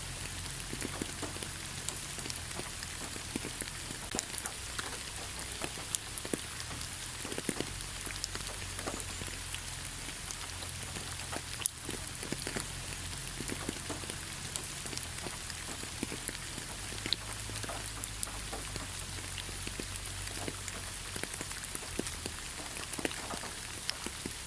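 Steady rain with many separate drops pattering and dripping close by, as in a forest.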